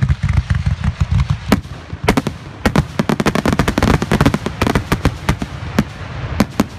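Aerial fireworks shells bursting in a rapid barrage, many sharp bangs a second, densest in the middle and thinning out near the end.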